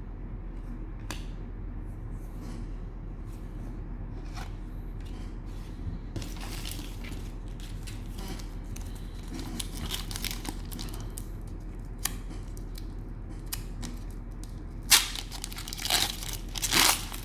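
Cellophane wrapper of a trading-card cello pack crinkling and tearing as it is opened: scattered rustles at first, growing denser and louder near the end. A steady low hum runs underneath.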